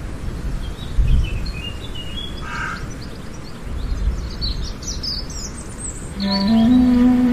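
Birds chirping in short high calls over a low background noise, after which music with a held low note comes in near the end.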